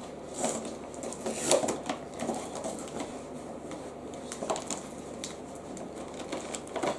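Scattered clicks, knocks and rustles of a plastic toy and its packaging being handled, the sharpest knock about a second and a half in.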